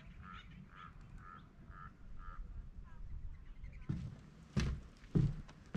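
A bird calls about five times, short notes roughly half a second apart, with one fainter note after them. From about four seconds in come footsteps on a dry dirt path, about one every 0.6 seconds, the loudest near the end.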